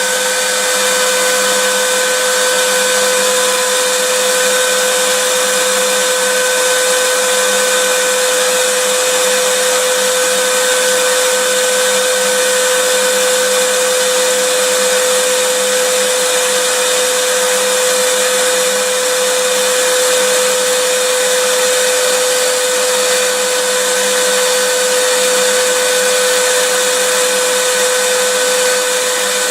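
Vacuum cleaner running steadily, a loud, even rush of air with a steady motor hum.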